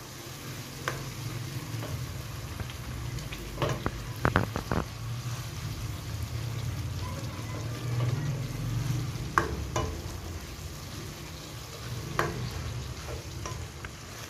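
Tomato masala with green chillies frying in a non-stick pot, stirred with a plastic spoon that scrapes and clacks against the pot a handful of times, a quick cluster about four seconds in, then a couple more near nine and twelve seconds.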